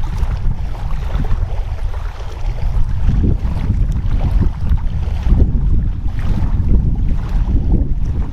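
Wind buffeting the microphone: a loud, gusting low rumble that swells and eases.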